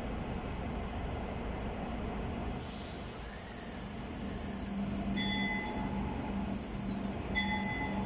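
A train in the station: a steady low rumble, then a burst of air hiss about two and a half seconds in, with brief high squeals. In the second half a pitched tone sounds in repeated bursts.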